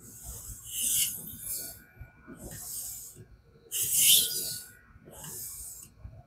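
Knife blade scraping along a King whetstone in a guided fixed-angle sharpener, about four strokes of roughly a second each with short gaps between: edge strokes to work off the burr.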